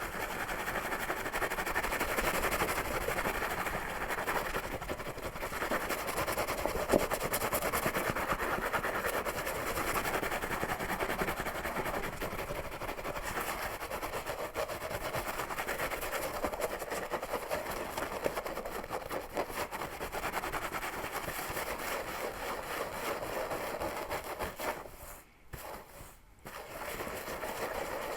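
Fingers scratching a scalp and pulling through hair close to the microphone: a dense, crackling rustle, broken by two short pauses near the end.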